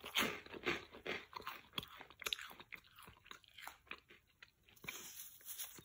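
Crunching and chewing of puffed barbecue-flavoured corn snack balls in the mouth: many irregular crisp crunches, loudest just after the start.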